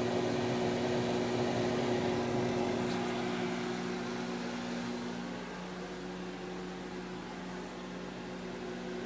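Microwave oven running with matches inside, a steady electrical hum over its fan noise; the hum's pitch shifts slightly about five seconds in.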